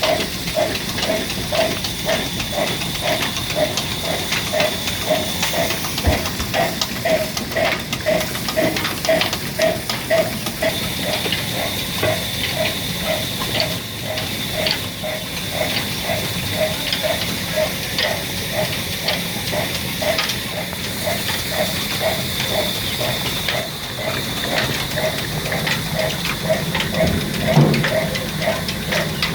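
Engine running steadily with a slow, even beat of about two and a half pulses a second, over a constant hiss.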